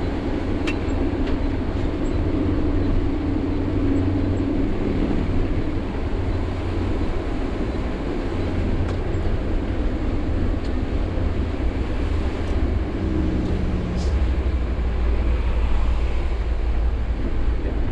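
Sany 6x4 dump truck's diesel engine and road noise, a steady low rumble while driving. The engine note shifts about thirteen seconds in, and there are a few faint clicks.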